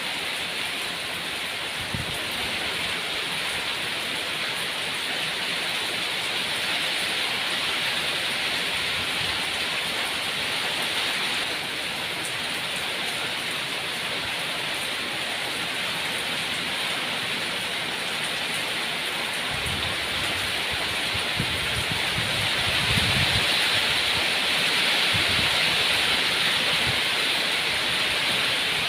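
Steady rain falling, a dense hiss that swells a little louder in the second half.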